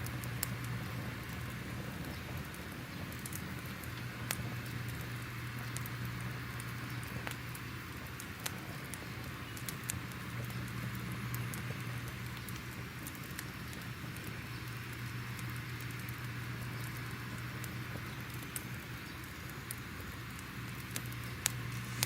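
Crackling fire ambience: a steady hiss with scattered sharp pops and crackles over a low steady hum.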